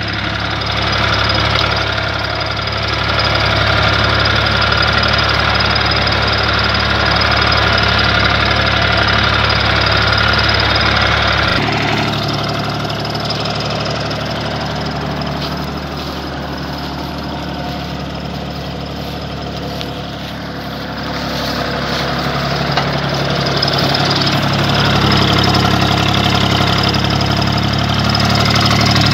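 Universal 453 tractor's three-cylinder diesel engine running steadily. Its note changes abruptly about twelve seconds in, then grows a little quieter for several seconds before picking up again.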